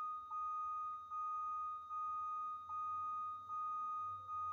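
Electronic dashboard warning chime in a diesel RV cab with the ignition on and the grid heater preheating: a steady high tone, and under it a second, lower tone that pulses on and off a little over once a second.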